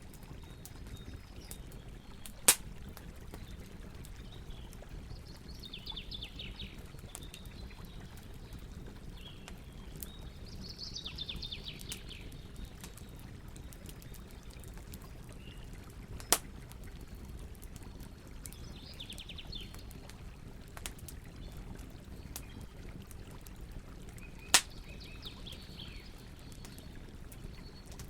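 Campfire burning with a steady low rustle and occasional sharp crackling pops, three of them loud. A bird sings short trills four times in the background.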